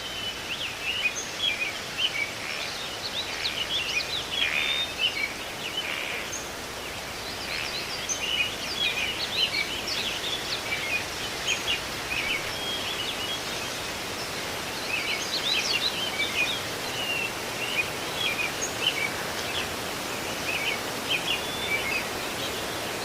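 Birds chirping and calling in quick clusters of short, high notes, over a steady outdoor hiss.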